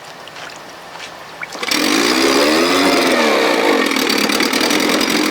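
1957 Sea King 5 hp two-stroke outboard motor starting up: a few light clicks, then it catches suddenly and runs, its pitch rising and falling before settling into a steady fast running.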